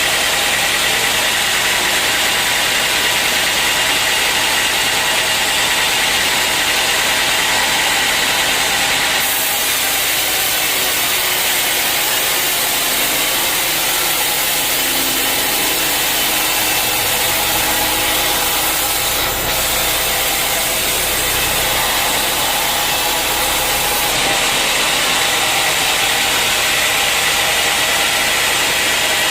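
Sawmill running steadily while sawing dry old teak, a loud machine drone under a dense hiss of the cut. The high hiss grows brighter about nine seconds in and drops back a few seconds before the end.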